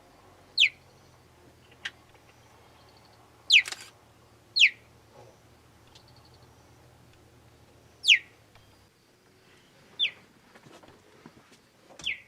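A small animal, most likely a bird, giving sharp, high chirps, each a quick downward-sweeping note, six times at uneven intervals. A faint low hum runs underneath and stops about nine seconds in.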